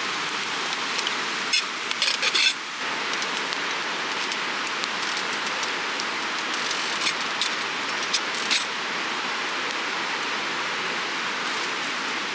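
A steady hiss, with short clusters of sharp clicks about two seconds in and again around seven to eight and a half seconds in.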